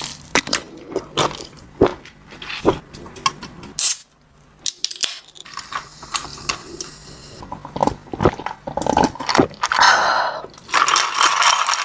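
Close-miked chewing and biting of food, a quick irregular run of wet mouth clicks and crunches, denser and noisier near the end.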